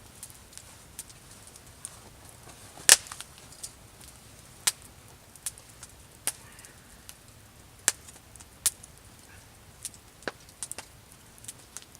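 Wood campfire crackling, with sharp irregular pops and snaps over a faint hiss; the loudest snap comes about three seconds in.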